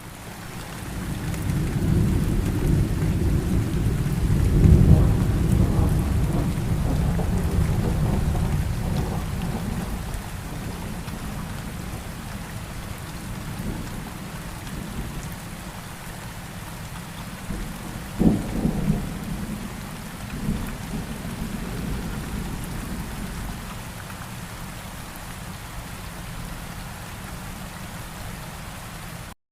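Steady rain with thunder: a long low roll of thunder swells in the first couple of seconds and fades over about ten seconds, then a sharp thunderclap about 18 seconds in is followed by a shorter rumble.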